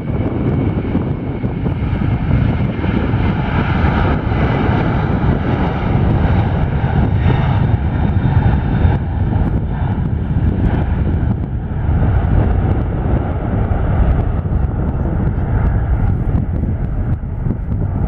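Airliner engine noise: a loud, steady rumble with a faint high whine over it.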